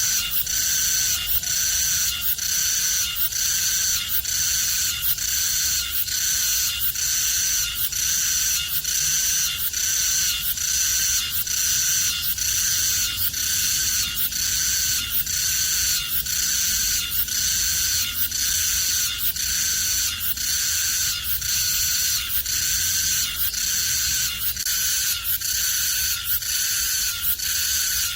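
Sseureum cicada (Meimuna mongolica) singing loudly, its song repeating at about one phrase a second.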